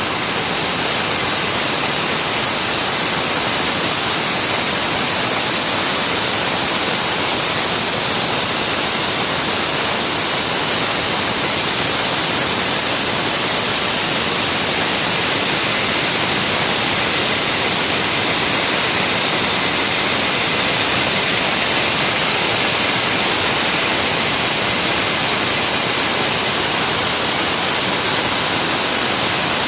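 Sawmill machinery running steadily: a loud, even hiss with a constant high whine, with no pauses or changes in pitch.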